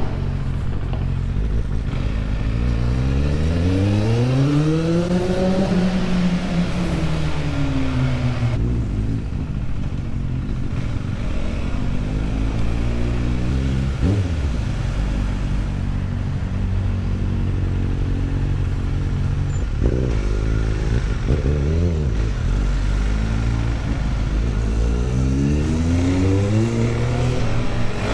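Engine accelerating, its pitch climbing and falling several times as it revs through the gears, over a steady rushing noise.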